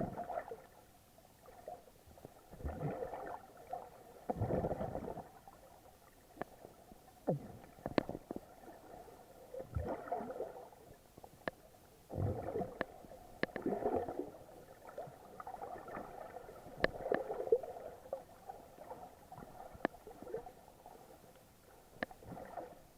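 Water moving around a camera, heard muffled as it films while snorkeling: irregular gurgling surges every second or two, with scattered sharp clicks.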